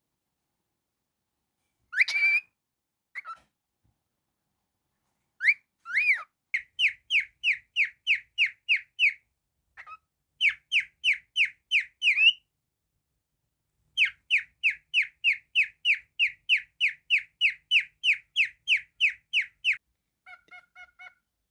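A cockatiel whistling: one rising whistle, then long runs of short repeated whistled notes, about three and a half a second, each dipping slightly in pitch, broken by two short pauses. A few faint short beeps near the end.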